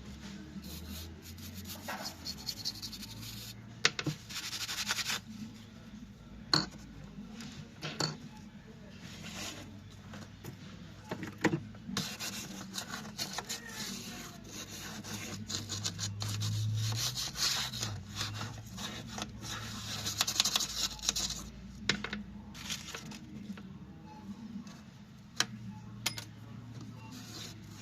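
Hands working on a laptop during cleaning: repeated rubbing and scraping, with sharp clicks of plastic and small parts scattered throughout, over a low steady hum.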